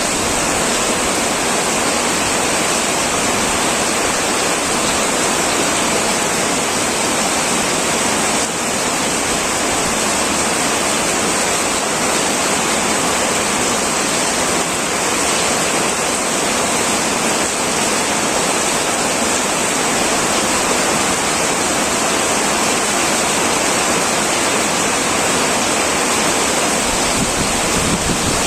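Heavy rain falling steadily on an old tin roof: a dense, even hiss with no let-up.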